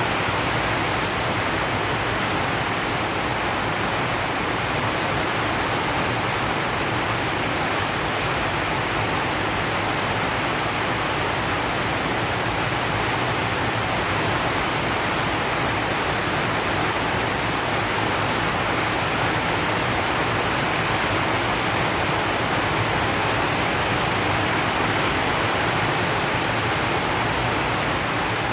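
Rain falling steadily on a zinc sheet roof, an even rushing hiss with no single drops or breaks standing out.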